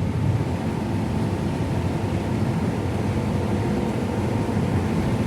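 Combine harvesting corn: engine and threshing machinery running with a steady low drone.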